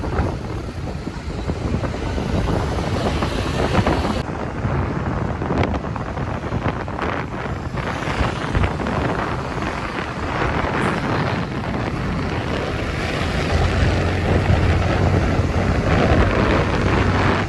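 Wind buffeting the microphone of a moving motorcycle, over steady engine and road noise. A low drone swells up in the last few seconds.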